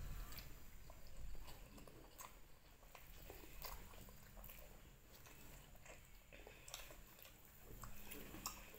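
Faint sounds of people eating with their hands: quiet chewing with scattered small clicks and ticks.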